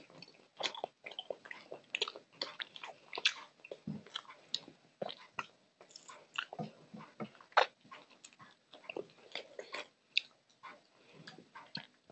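Close-miked eating: chewing and biting, with many irregular short wet clicks of mouth and food as a mouthful of rice and curry is eaten.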